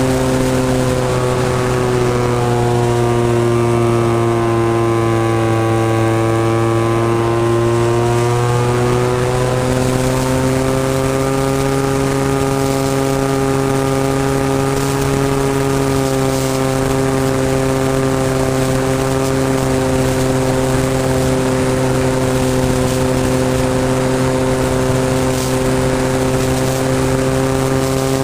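26cc two-stroke gas engine of a Seagull Models Spacewalker 120 RC airplane running steadily with its propeller. The engine's pitch dips a little between about three and nine seconds in, then climbs back and holds.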